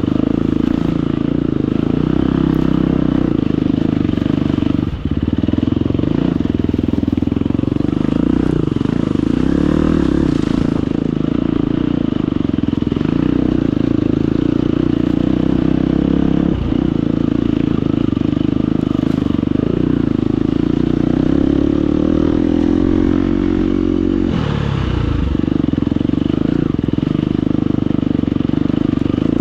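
Husqvarna FE250 four-stroke single-cylinder enduro engine running under load on a rough trail. It holds steady revs, dips briefly about five seconds in and again around seventeen seconds, and falls in pitch then picks up again around twenty-four seconds.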